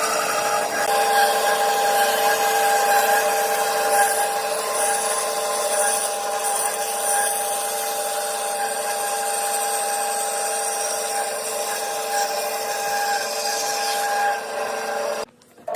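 Electric power tool working solid wood, a steady motor tone under a rasping, abrasive noise. It cuts out suddenly just before the end.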